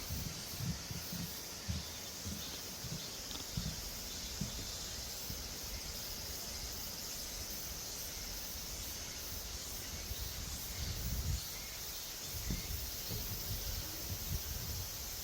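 Forest ambience with a steady high-pitched insect chorus. Irregular low thumps come and go beneath it, thickest at the start and near the end.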